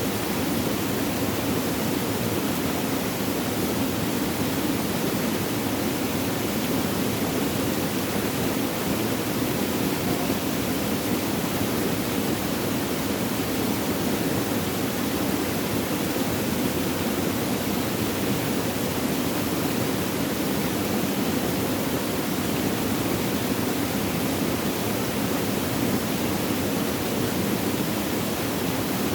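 Flowing water, a steady even rush with no splashes or changes.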